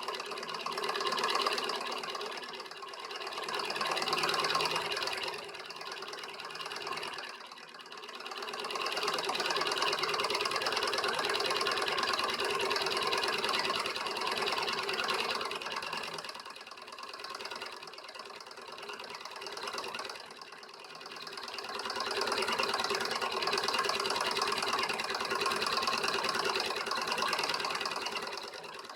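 Home-built beta-type Stirling engine running, its small mechanism clattering rapidly and steadily, swelling and easing in loudness every few seconds.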